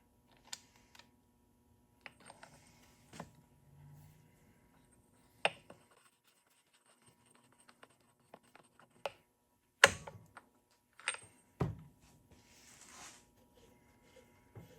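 Scattered clicks, clinks and knocks of metal motorcycle parts and hand tools being handled and set down, with a few sharp knocks, the loudest about ten seconds in.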